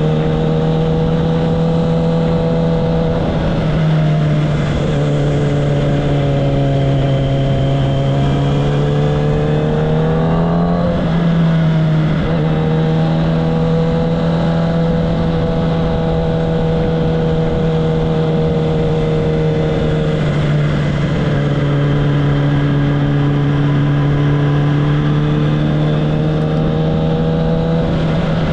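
Kawasaki ZX-10R inline-four sport bike engine and exhaust running at a fairly steady engine speed, with its pitch briefly dipping and rising a few times.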